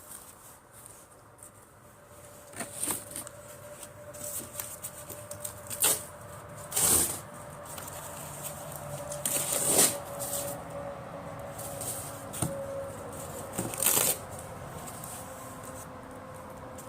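Rustling and handling noises with a few sharp knocks and clatters as the fire is laid, before it is lit.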